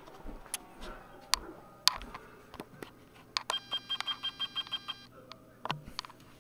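A rapid run of electronic beeps from a small device, about five a second for roughly a second and a half in the middle, among scattered sharp clicks and knocks, the loudest about two seconds in.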